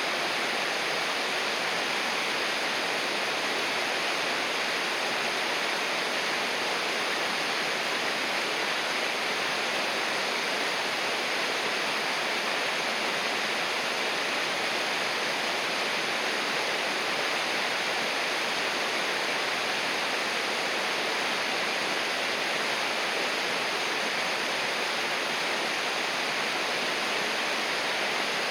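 River water rushing, a steady, even hiss without change.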